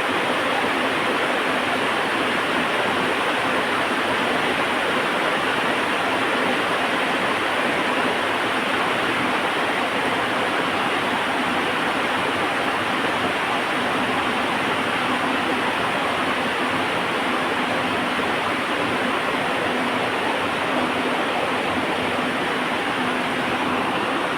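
Heavy rain falling steadily, an even, unbroken hiss with no thunder or crackle standing out.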